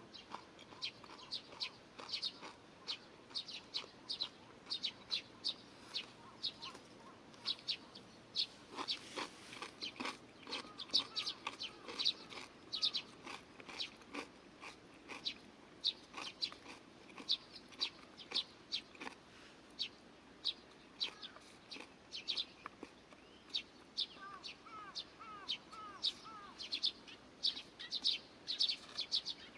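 Small birds chirping, a steady stream of short, high notes, joined about 24 seconds in by a run of lower, curving calls.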